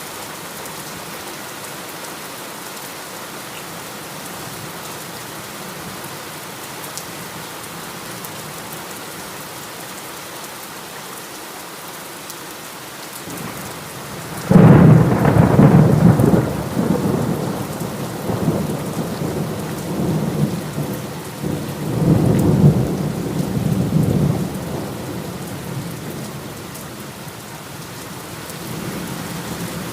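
Steady heavy rain, then about halfway a loud crack of thunder that rolls into a low rumble, swelling again several times over the next ten seconds before easing back under the rain.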